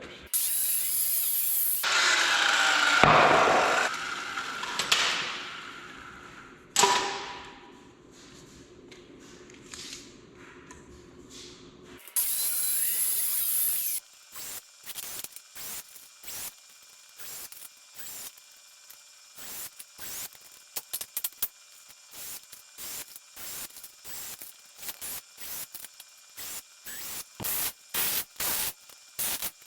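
Workshop tool and handling noise: loud bursts of a tool in the first few seconds, a sharp knock that rings about seven seconds in, another burst around halfway, then a long run of short repeated strokes, like a ratchet being worked.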